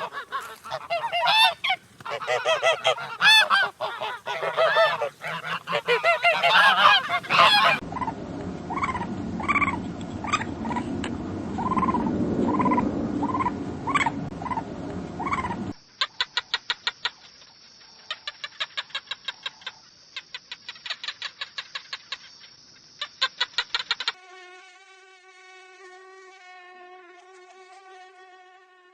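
A string of different animal sound clips cut one after another: loud calls at first, then a call repeated at a steady pace, then a fast rattling buzz, ending in a steady pitched hum.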